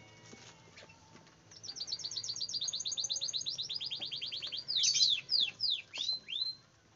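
A songbird singing: a fast, even trill of high notes, about ten a second, then a handful of louder, sharply falling whistled notes near the end.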